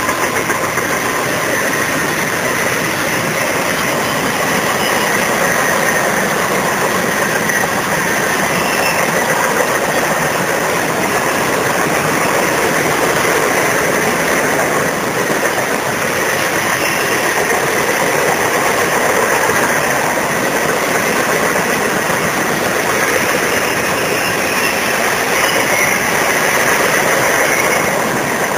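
Freight cars of a long freight train rolling past close by: the steady, loud running noise of steel wheels on rail, keeping up without a break.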